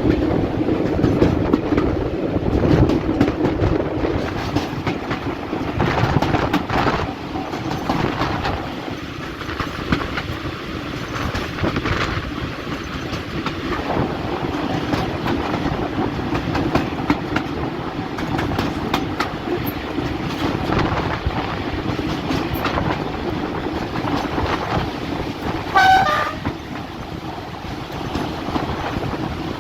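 A diesel train running along the line, its engine droning steadily and its wheels clicking over the rail joints. Near the end the horn gives one short toot.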